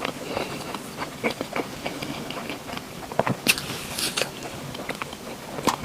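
Close-miked eating sounds: chewing with many small wet mouth clicks, and a few sharper clicks about three and a half seconds in and again near the end.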